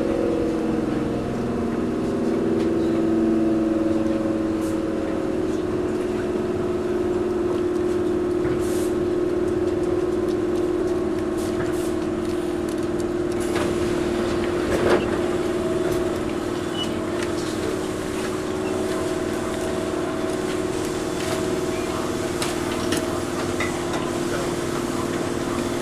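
Cabin of a Toyohashi Railway 1800-series (ex-Tokyu 7200) electric car standing at the terminus, with the air conditioning running and a steady hum from the car's equipment. Scattered light clicks and one sharp knock come about halfway through.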